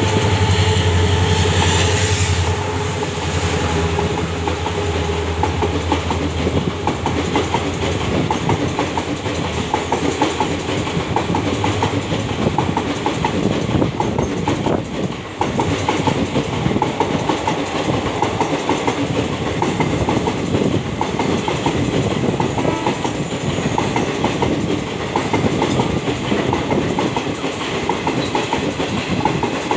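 Diesel-hauled express passing through at speed. The locomotive's engine drone and a thin high whine fill the first couple of seconds, then fade. A long string of passenger coaches follows, rattling by with a steady clickety-clack of wheels over the rail joints.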